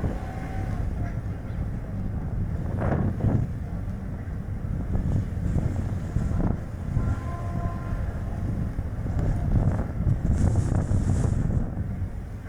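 Strong gusting wind buffeting the microphone over the low rumble of tyre and road noise from a Chevrolet Spark light car driving, with a brief louder hiss about ten seconds in.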